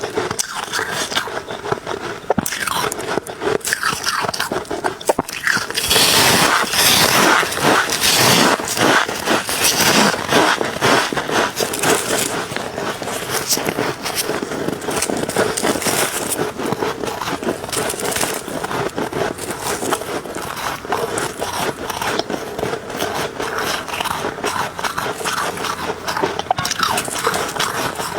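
Ice being bitten and crunched between the teeth close to the microphone: a dense, continuous crunching and crackling, loudest for a few seconds near the start.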